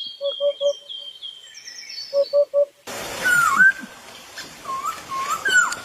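Birds calling: a run of high chirps with two sets of three short, low hooting notes. About three seconds in, the sound cuts to a noisier recording with short whistled calls that dip and rise in pitch.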